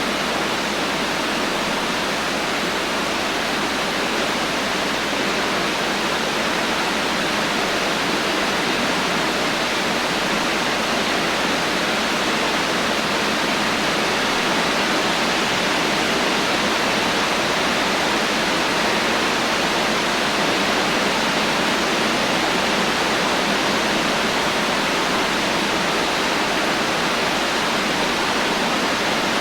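Steady heavy rain, a dense, even hiss of falling drops with no thunder and no distinct individual drips.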